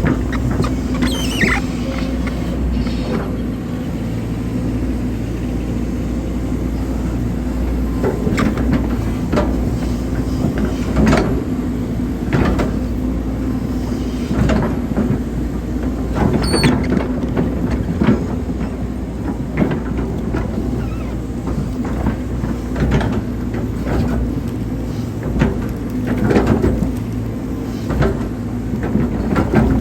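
Hydraulic excavator running steadily under load while digging, its engine drone held at a constant pitch, with repeated short clanks, scrapes and an occasional squeal from the bucket and arm working the soil.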